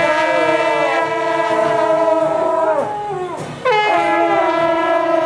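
Suona (Chinese double-reed shawm) playing long held, reedy notes; the phrase slides down in pitch about three seconds in, and a new note starts abruptly with an upward scoop just after.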